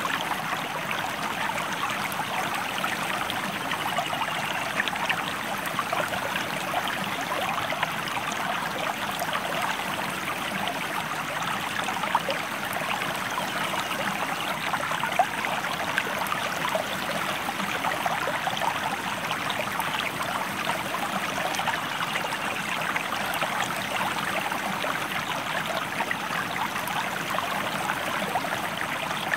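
Stream of water flowing steadily, a continuous rushing babble with many small splashes and a few slightly louder ones.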